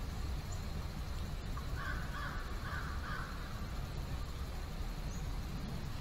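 A few harsh, crow-like bird calls in quick succession about two seconds in, over a steady low rumble.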